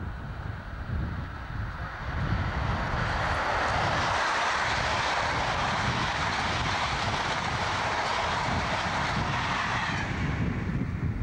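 Passenger train of coaches passing close by at speed on the main line: a steady rush of wheels on rail that builds over about two seconds, holds, and eases off near the end.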